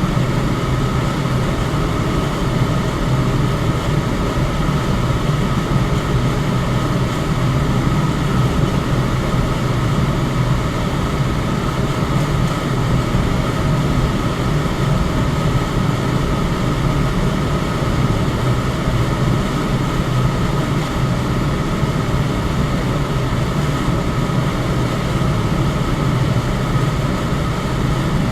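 Electric fan running steadily: an even rush of air with a low hum and a faint steady whine above it.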